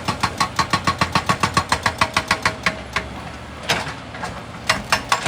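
Excavator-mounted hydraulic rock breaker hammering rock in rapid, even blows, about seven a second, over the machine's engine. The hammering stops about three seconds in, leaving the engine and a few single knocks.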